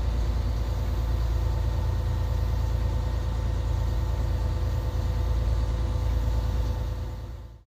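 Engine running steadily: a low, even drone with faint steady hums above it, fading out near the end.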